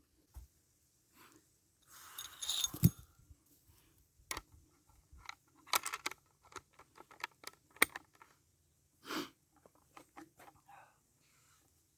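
Irregular handling noises: scattered clicks and light knocks of small objects, with a burst of rustling about two seconds in that ends in a sharper knock.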